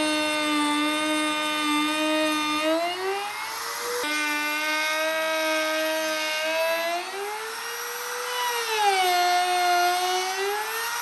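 An electric power tool's motor whining, its pitch gliding as its speed changes. The pitch climbs about three seconds in, drops back suddenly at about four seconds, climbs again around seven seconds, dips near nine and rises once more near the end.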